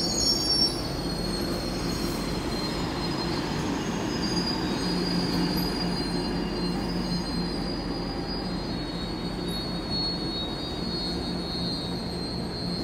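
Passenger train rolling past and away, its wheels squealing on the rails with a steady high-pitched tone over a low hum and rumble. It is a little louder in the first second.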